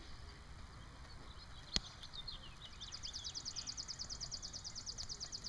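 A songbird's trill: a rapid, even run of high dry notes, about eleven a second, starting a little past the middle and lasting about three seconds. A few scattered high chirps come before it, and a single sharp click sounds about two seconds in.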